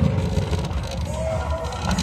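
A car engine rumbling at low revs, settling after a rev.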